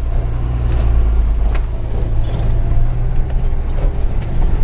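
Truck's diesel engine running steadily with a deep low hum, heard from inside the cab, with a few sharp rattles or knocks over it.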